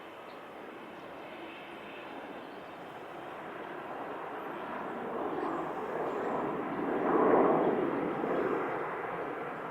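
Jet airliner passing low overhead on its landing approach: the engine noise builds steadily, is loudest about seven seconds in, then starts to fade.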